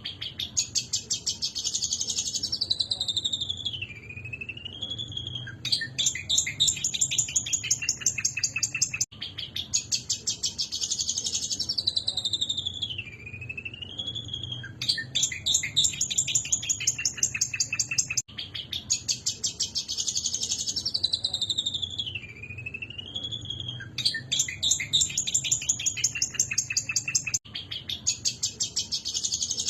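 Long-tailed shrike (cendet) in agitated, fired-up song, a looped recording repeating about every nine seconds. Each loop opens with a rapid, scratchy chattering rattle and runs into a sweeping whistled phrase that falls and wavers in pitch.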